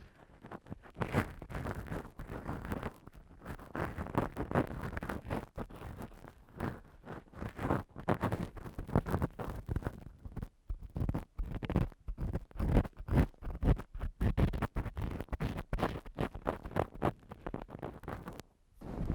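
An ear-cleaning tool scratching and rubbing against the microphone in quick, irregular strokes, with a short pause near the end.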